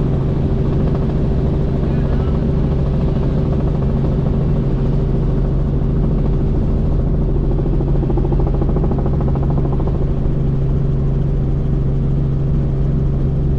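Helicopter in flight: a loud, steady drone with constant low hums.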